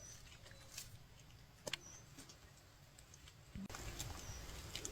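Quiet outdoor sound: a few faint clicks and knocks and soft rustling that grows a little louder after about three and a half seconds, with a few short, high bird chirps.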